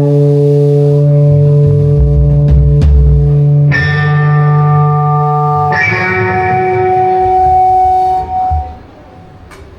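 Live band music: guitar chords ringing out over a low bass note, changing chord twice, then stopping abruptly near the end.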